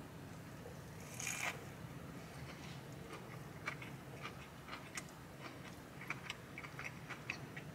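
Quiet eating sounds: a short rustle, like paper wrapping being handled, about a second in, then faint scattered clicks and crunches of someone chewing a fried chicken burger.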